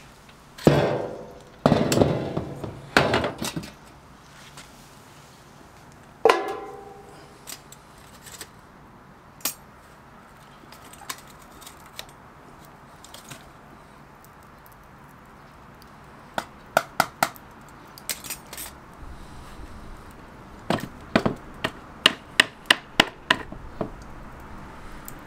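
Metal camp gear being handled: four loud ringing metal clanks in the first seven seconds, then, after a quiet spell, quick runs of light clicks and clinks.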